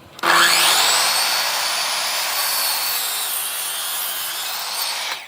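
Electric power tool cutting into wood, running steadily under load for about five seconds. It starts suddenly and stops abruptly near the end.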